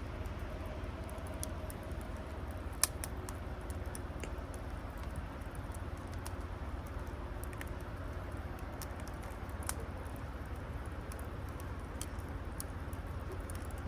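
Scattered sharp clicks and small pops at irregular intervals, one louder crack about three seconds in, over a steady low rumble.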